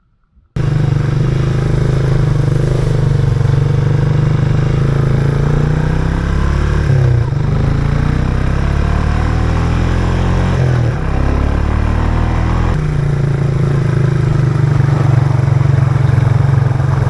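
Farm bike engine running under way, starting abruptly. The pitch shifts around seven and eleven seconds in as the revs change.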